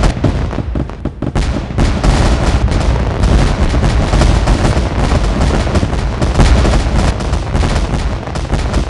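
Fireworks going off in a dense, continuous barrage of bangs and crackles, many per second, over a heavy low rumble.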